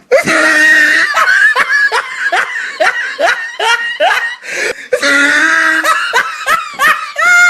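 Loud laughter: quick, high-pitched bursts of laughing, several a second, with a brief break about halfway through.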